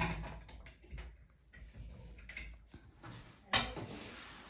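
Scattered light clicks and knocks of dishes and utensils being handled while a meal is cleared away, with one sharper knock about three and a half seconds in.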